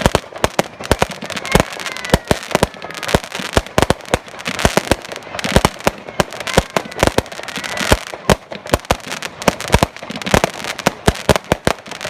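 Fireworks display going off: a rapid, irregular barrage of bangs and crackles, several reports a second, with a few faint whistles.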